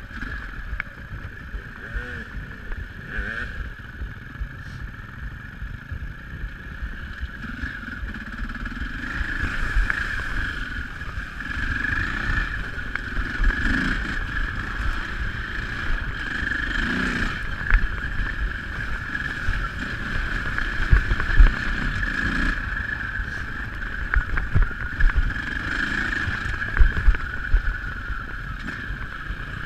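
Dirt bike engine heard from the rider's seat while riding a rough trail, its pitch rising and falling again and again as the throttle opens and closes, over a steady rumble with scattered knocks from the bumps.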